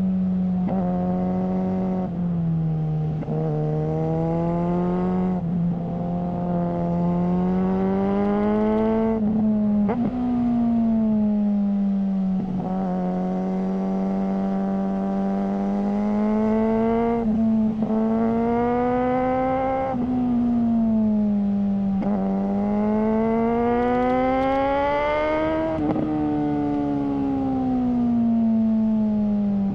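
Suzuki GSR600's 600 cc inline-four engine through a GPR Ghost aftermarket exhaust, pulling through the gears: the note climbs in pitch, then drops at each shift, about eight times, with stretches of steady cruising between.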